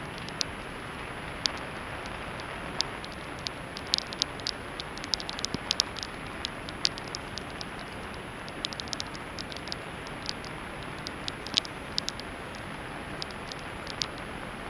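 Heavy rain falling steadily, with many sharp taps of drops landing close by.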